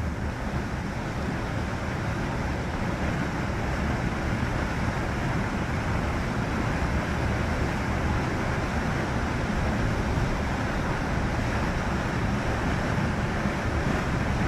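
Steady rushing and rumbling of wind and rough sea, with heavy low-pitched wind buffeting on the microphone.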